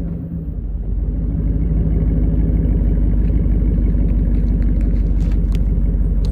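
2011 Chevrolet Silverado's V8 running steadily through a single-chamber muffler and axle-dump exhaust, a low even rumble that grows a little louder after the first second.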